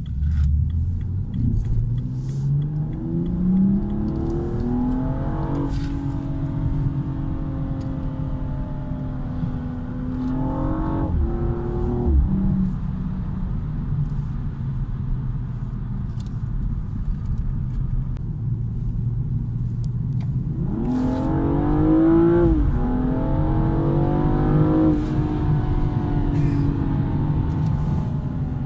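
BMW M235i engine pulling through the gears: the pitch climbs and drops at each upshift, then holds steady while cruising. About 21 seconds in it accelerates hard again, with two quick upshifts.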